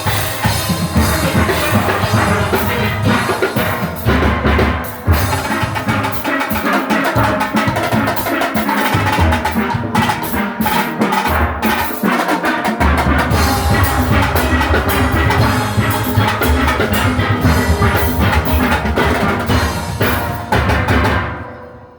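A steel orchestra playing live: massed steelpans over a drum kit and percussion driving a steady beat. The piece ends near the close, the sound dying away.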